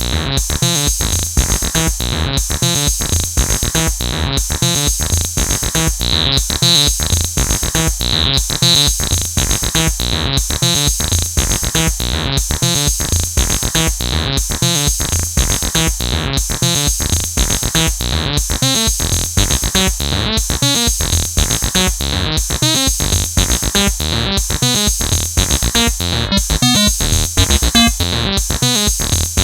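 Acid electronic music played live on AcidMachine: a fast sequenced synthesizer line over a drum-machine beat, in a pattern that repeats about every two seconds.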